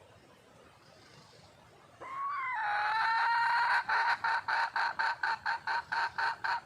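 A wild junglefowl hen calling, the call a hen gives when seeking a mate. About two seconds in, a loud call starts with a short drop in pitch and a held note, then breaks into a rapid run of even clucking pulses, about four a second.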